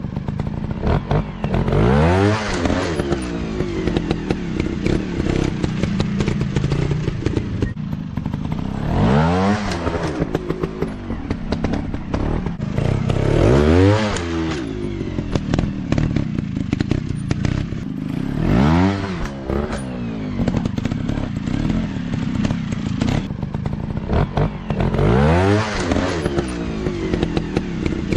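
Dirt bike engines running and revving, the pitch sweeping up and falling back about five times, with a steady engine drone between and scattered clatter.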